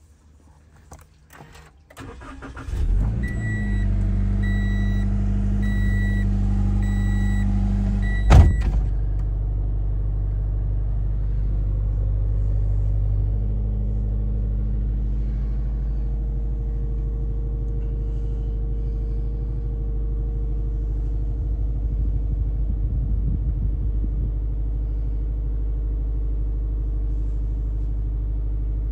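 A 2020 Toyota 86's 2.0-litre flat-four engine started with the push button: it cranks briefly about two seconds in, catches and runs at a high cold-start idle, then settles into a steady idle. A repeating beep sounds for several seconds after it fires, and a single sharp knock comes about eight seconds in.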